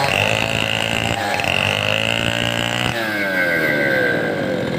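Large two-stroke chainsaw engine running hard, its pitch dipping and rising again about a second in and then falling off over the last couple of seconds.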